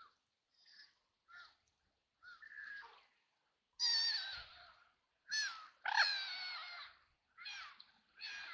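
Ducks quacking: a few soft quacks, then from about four seconds in a run of loud, harsh quacks.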